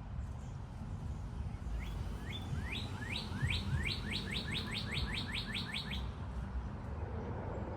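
A songbird sings one song of about a dozen quick, rising whistled notes that speed up as it goes, starting about two seconds in and ending about six seconds in, over a steady low rumble.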